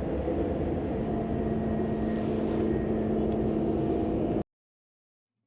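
Steady rumble and hiss of a high-speed train running at speed, heard inside the passenger cabin. A low steady hum joins about a second in. The sound cuts off suddenly near the end, leaving about a second of silence.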